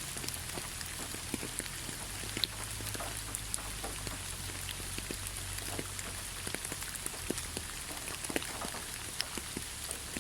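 Steady rain falling through a pine forest, a constant hiss with many separate drops ticking and pattering close by.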